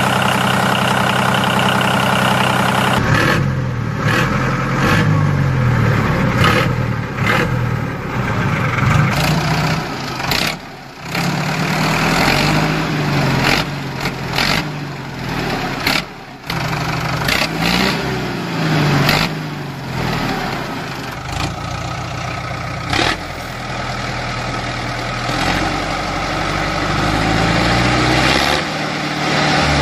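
Tractor engine running, revving up and down several times so that its pitch rises and falls, and breaking off briefly twice.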